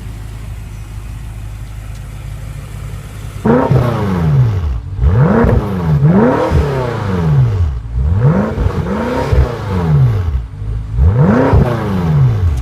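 2014 BMW M5's twin-turbocharged 4.4-litre V8 idling, then revved again and again from about three and a half seconds in. Its pitch climbs and falls back in a series of rev blips, each about a second long.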